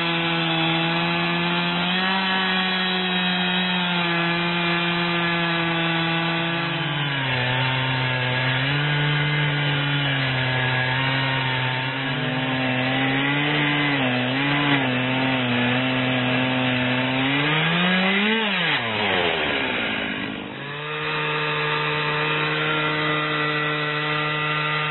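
Two-stroke chainsaw at full throttle, ripping a log lengthwise in a Granberg small log chainsaw mill. About seven seconds in, the engine note drops and stays lower as the saw loads up in the cut. Near the end it revs up and falls away sharply, then comes back up and runs steady.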